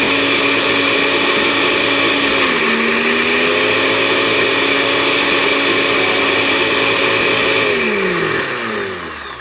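Electric blender running loud while blending a milkshake. Its motor pitch drops about two and a half seconds in and then slowly climbs back. Near the end it is switched off and winds down with a falling whine.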